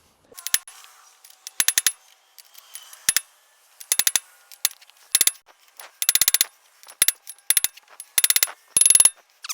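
Hammer blows on a rust-seized steel part of a truck's front hub: sharp metallic strikes with a high ring, some single and some in quick runs of several, coming in about eight groups.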